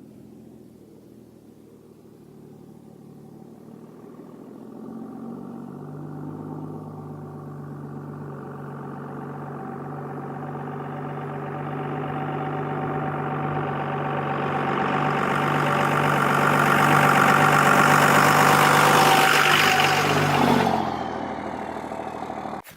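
A motor vehicle's engine running steadily and growing louder for most of the stretch, as if drawing closer, then dropping off sharply near the end.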